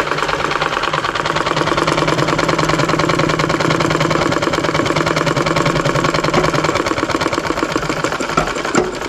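Sewing machine running at speed, its needle stitching in a fast, even rhythm.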